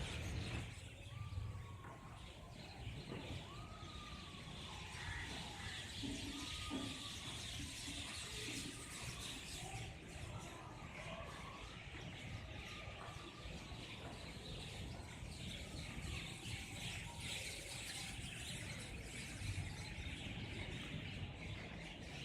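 Birds calling outdoors: several short arching whistled notes in the first seven seconds, then fainter chirps, over a steady background hiss and low rumble.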